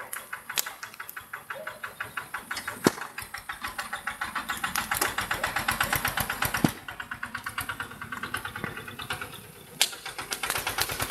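Tractor engine chugging in rapid, even beats, picking up and growing louder through the first half, then dropping back suddenly about two-thirds in before picking up again near the end. A few sharp cracks stand out above it.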